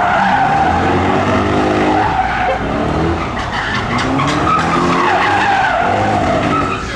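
A car drifting, its tyres squealing continuously with a wavering pitch, over the engine revving up and down.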